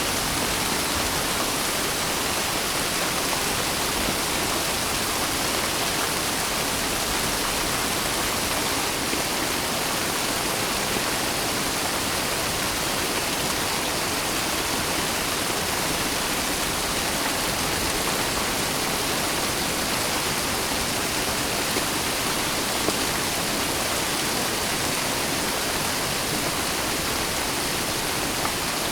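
Steady heavy rain, a dense even hiss with no single drops standing out and no thunder.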